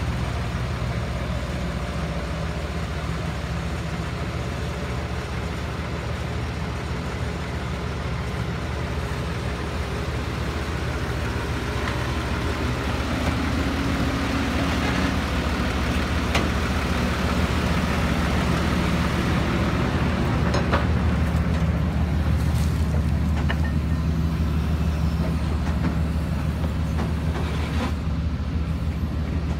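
Kobelco SK140-8 excavator's diesel engine running steadily under load as the machine travels on its tracks, growing somewhat louder through the middle.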